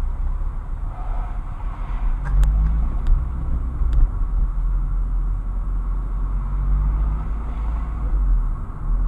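A car driving, its engine and road noise making a steady low rumble, with a few sharp clicks between about two and four seconds in.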